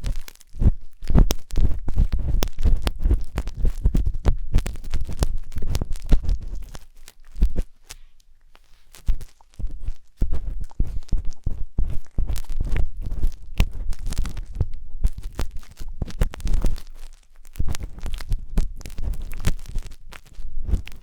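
Wooden skewer scraping and rubbing in the silicone ear of a 3Dio binaural microphone: close, dense scratching and crackling over a deep rumble, easing off for a moment about eight seconds in.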